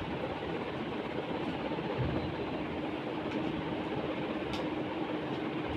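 Steady background noise with a faint, even hum.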